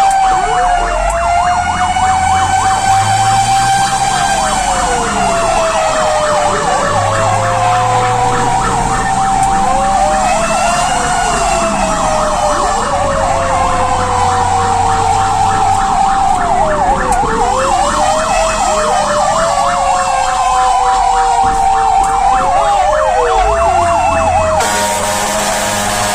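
Fire engine siren sounding continuously while responding, a slow wail that rises and falls over a rapid warbling yelp, with the truck's engine running underneath. Near the end a steady blaring tone cuts in.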